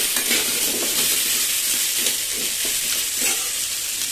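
Cubed potato, cauliflower and pumpkin sizzling steadily in hot oil in a kadai. A steel spatula stirs and scrapes through them in short strokes, several in the first second or so and a few more toward the middle.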